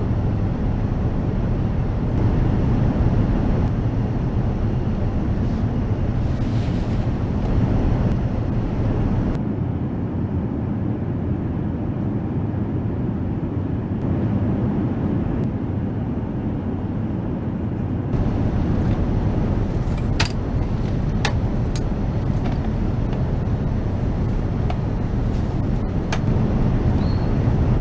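Steady low rumble of an Airbus A380 cabin, engine and airflow noise, changing suddenly twice as clips cut. There are a few sharp clicks in the last third.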